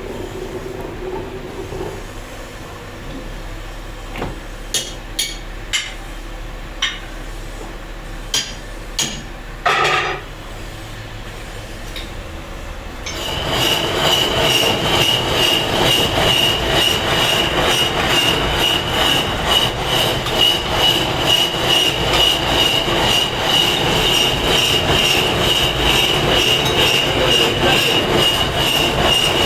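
A few sharp knocks of tools on stone, then about halfway through a power grinder starts and runs steadily against the stone with a high, even whine.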